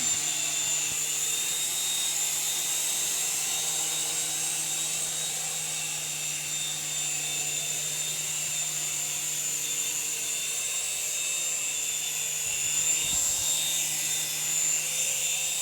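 Small electric RC helicopter in flight: a steady high-pitched electric motor whine over a low, even rotor hum.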